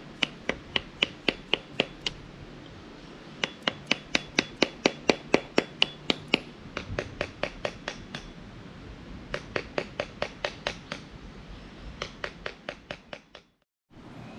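Quick runs of sharp taps on wood, about four to five a second, in groups separated by short pauses: a tool striking wood while a wooden kuksa cup is carved.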